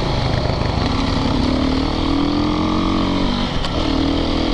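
Single-cylinder four-stroke dirt bike engine running under way on the trail, its pitch climbing slowly over the first few seconds, easing off briefly about three and a half seconds in, then picking up again.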